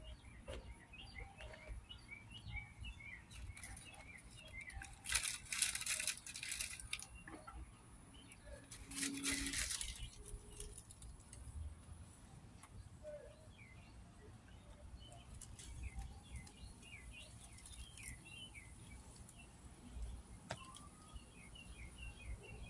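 Small birds chirping faintly in quick series of short notes, with two louder bursts of hissing noise, each a second or two long, about five and nine seconds in.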